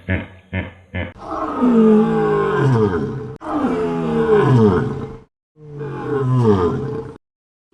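Hippopotamus calling: three long roaring calls, each about two seconds and falling in pitch, with short breaks between them.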